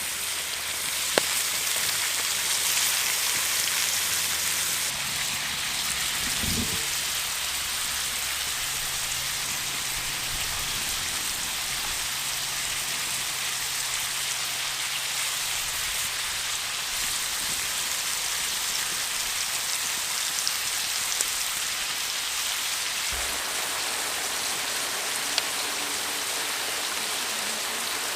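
Rain falling steadily in a steady hiss, with a few sharp taps or clicks here and there.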